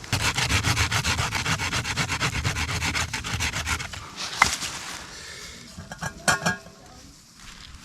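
Hand saw cutting through a wooden stick with quick, even back-and-forth strokes, about eight a second, which stop about four seconds in.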